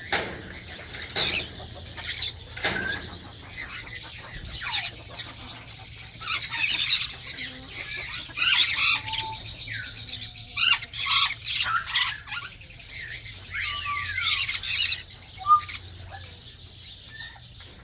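Suncheek conures, small parrots, giving short, sharp chirps and squawks in irregular bursts throughout, with a few gliding whistled calls near the end.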